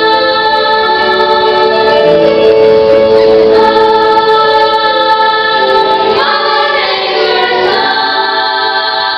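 Teenage choir singing in harmony, holding long sustained chords that shift to new notes about six seconds in.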